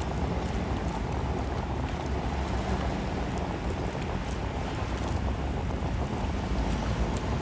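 River ferry running, a steady low rumble under wind buffeting the microphone.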